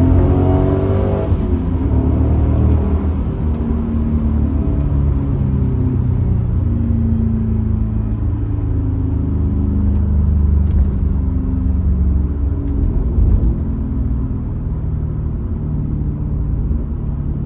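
2002 Pontiac Trans Am WS6's LS1 V8 running on the road. The engine note rises over about the first second, then settles into steady cruising with small changes in engine speed.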